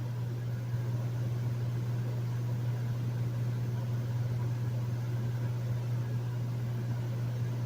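Hotel room air conditioner running steadily: a constant low hum with an even whoosh of air over it.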